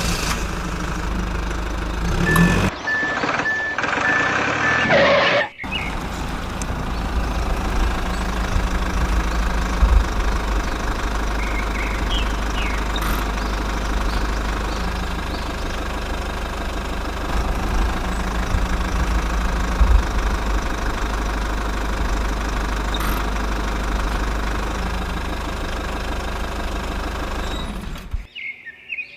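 A small engine running steadily from about six seconds in. It cuts off abruptly shortly before the end.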